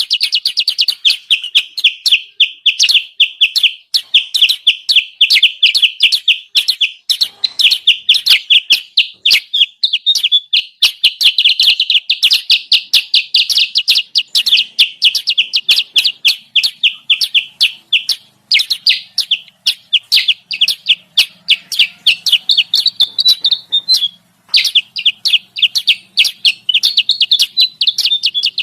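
Kutilang sutra lure call: a continuous, rapid chatter of loud high chirps, broken once by a short pause about 24 seconds in.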